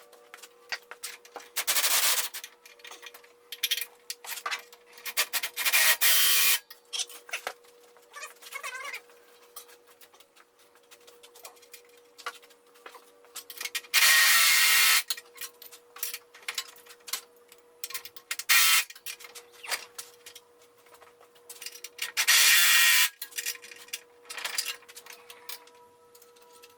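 Workshop handling noises: small clicks, knocks and scrapes of metal parts, broken by five short, loud bursts of hissing noise, each about a second long.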